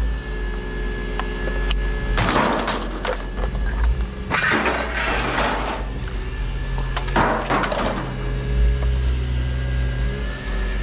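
Discarded items being rummaged through and shifted, with three bouts of rustling and clattering, over a steady engine hum.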